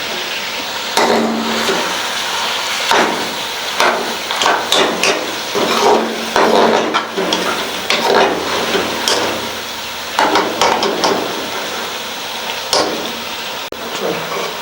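A metal spoon knocking and scraping against a karahi as chicken and softened tomatoes are stirred, with irregular clanks every half second or so over steady sizzling.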